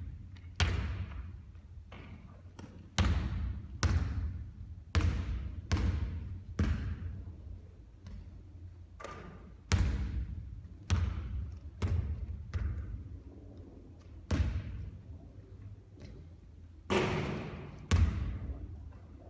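A basketball bouncing on a hard gym floor, about one bounce a second with a few short pauses. Each bounce is a sharp thud followed by a hall-like echo.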